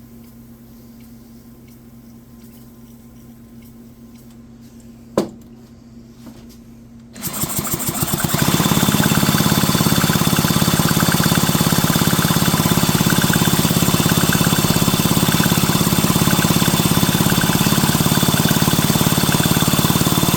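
A single sharp knock, then about seven seconds in a motor-driven machine starts up and runs loud and steady with a fast, even rattle, stopping just before the end.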